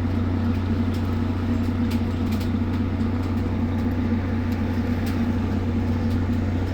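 A fishing vessel's engine running with a steady, even drone, with a few faint ticks over it.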